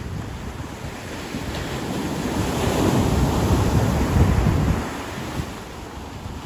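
Ocean waves breaking and washing on a beach, a wave building to its loudest about three seconds in and easing off. Wind buffets the microphone with a low rumble throughout.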